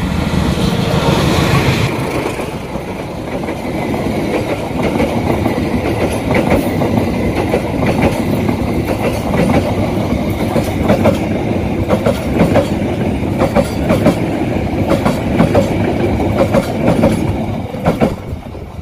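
Passenger train hauled by a CC 201 diesel-electric locomotive passing close at speed: loudest as the locomotive goes by in the first couple of seconds, then the carriages rush past with a long run of clickety-clack wheel clicks. It fades quickly near the end as the last car leaves.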